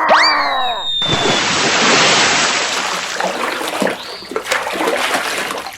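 A quick rising whistle-like sound effect, then a rush of splashing water for about four seconds that slowly fades.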